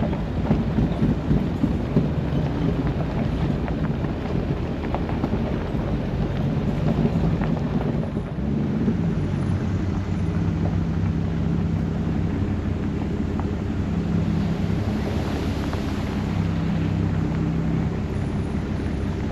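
Jeep engine running as it drives at low speed, its pitch shifting up and down a little, with wind noise on the microphone.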